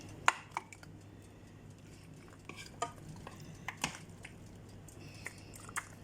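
A utensil scraping and clinking against a mixing bowl and a glass Pyrex baking dish as cooked macaroni is scooped in: a series of sharp, irregular clinks, the loudest just after the start.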